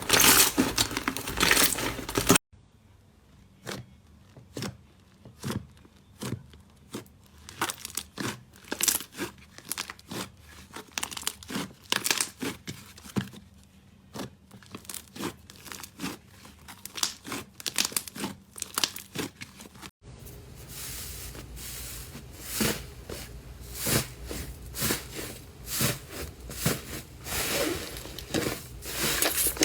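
Slime being squeezed and pressed by hand, making a series of sharp crackling clicks. The sound cuts to a different clip about two seconds in and again about twenty seconds in; the middle stretch is quieter with sparser clicks.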